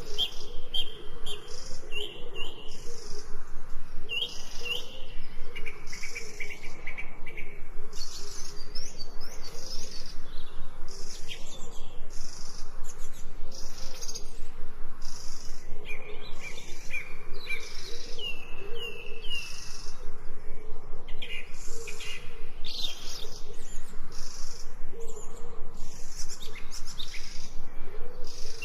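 Several small birds chirping and twittering in short phrases of quick, sliding notes, over a steady, fast-pulsing background.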